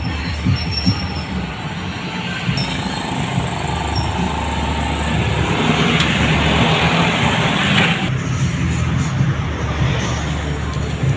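Motorcycle engine running steadily, with a rushing hiss for about two seconds around the middle.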